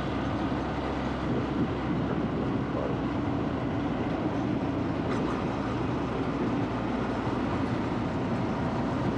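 Honda Super Cub's single-cylinder four-stroke engine running steadily while riding at cruising speed, mixed with wind and road noise.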